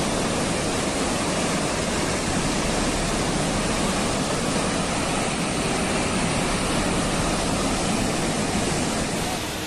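Tsunami floodwater rushing, a steady dense noise of churning water.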